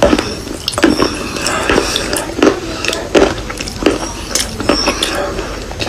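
Close-miked crunching of a person biting and chewing hard, dry edible chalk or clay, about eight sharp crunches at irregular intervals with fine crackling between them.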